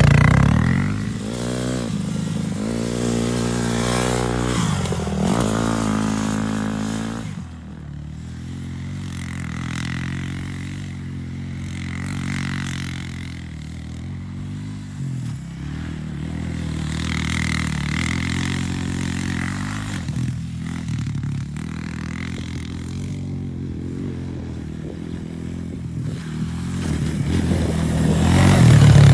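Pit bike engine revving hard, its pitch rising and falling through the first several seconds. It then runs at lower, steadier revs before climbing and getting louder near the end.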